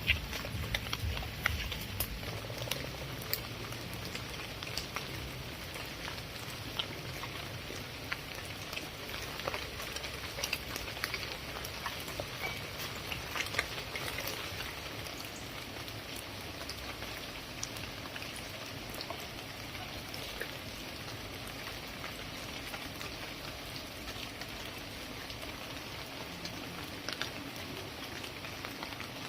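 Steady rainfall, with many separate drops ticking sharply on a hard surface over an even hiss.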